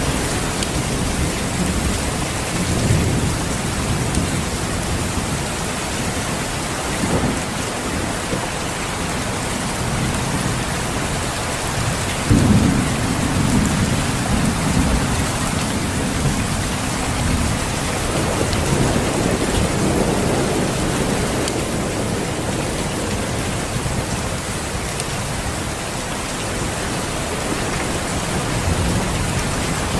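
Steady heavy rain hiss with low thunder rumbling under it. A sharper thunderclap comes about twelve seconds in and rumbles on for several seconds.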